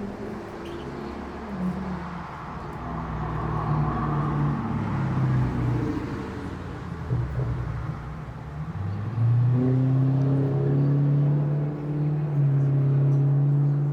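A motor vehicle engine running, its pitch shifting in steps as it revs and changes gear, then holding a loud, steady low hum from about two-thirds of the way through.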